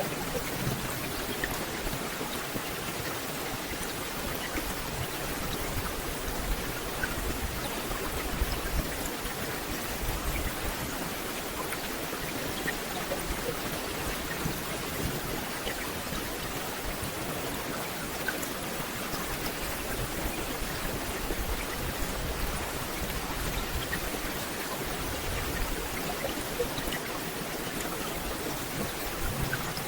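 Steady rain falling through a forest canopy, a dense even hiss with many individual drops pattering on leaves.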